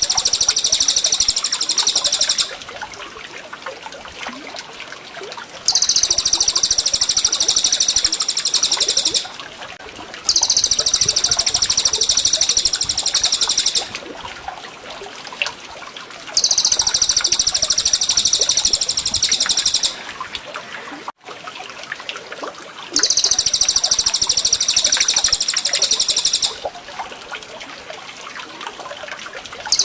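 High-pitched songbird song repeating in bouts of about three and a half seconds, five times, with short pauses between, over a steady trickle of running water. The bird is one of the two masteran singers, cucak jenggot or cililin.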